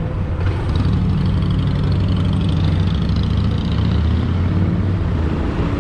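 Engine of a moving vehicle running steadily, with a low hum and wind and road noise over it.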